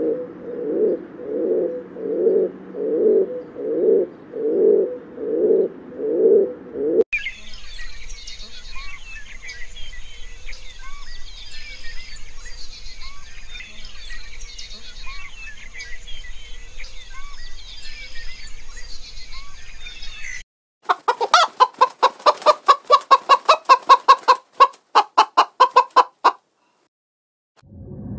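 A Victoria crowned pigeon coos in a steady rhythm, about one call every 0.7 s. After about seven seconds this gives way to a chorus of many small birds chirping. From about twenty seconds in comes a rapid run of short, sharp calls, about three a second.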